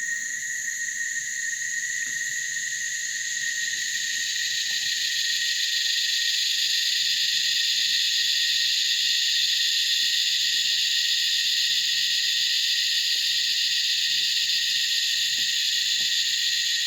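Dense cicada chorus: a shrill, continuous high-pitched drone with a steady tone beneath it, swelling in loudness over the first several seconds and then holding steady.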